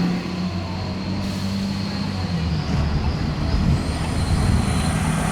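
Fire truck engine running with a steady low drone under road noise. The last of its siren falls away in the first moment, and a faint high whine comes in near the end.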